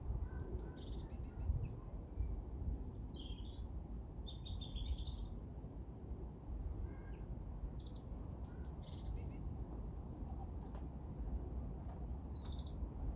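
Small songbirds giving short, high chirps scattered through, over a steady low rumble of wind on the microphone.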